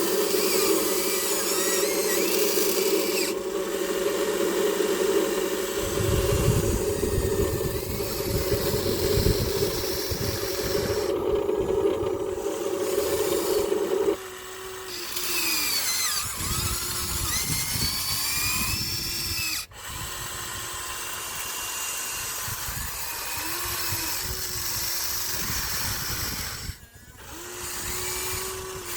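Electric gear motors of a Huina radio-controlled excavator whining as it digs. A steady drone runs for about the first half, then it breaks into a series of short whines that rise and fall. From about six seconds in there is a low rustle underneath, typical of the bucket working sand.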